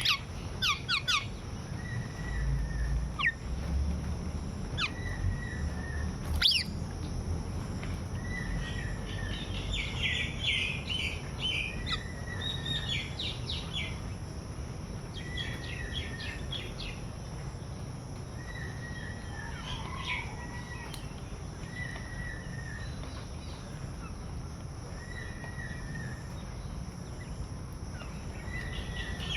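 Birds calling outdoors: one bird repeats a short call about every two seconds while others break in with bursts of rapid chirping, over a steady low background rumble.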